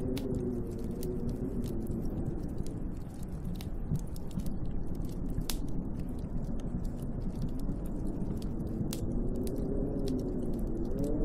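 Snowstorm wind blowing steadily against a cabin, with a howling tone that rises and falls near the start and again near the end. Scattered sharp clicks and ticks sound over it.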